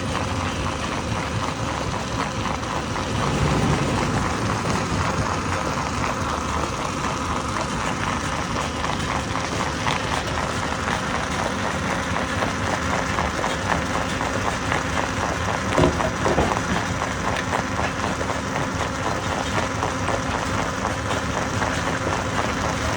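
Stone crusher running: a steady, loud mechanical din with dense rattling and clatter of rock, and a couple of louder knocks about sixteen seconds in.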